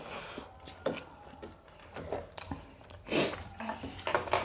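Close-up eating sounds: chewing of biryani mouthfuls and fingers squishing and mixing rice on the plates, heard as soft scattered clicks and wet noises. A brief louder burst of noise comes about three seconds in.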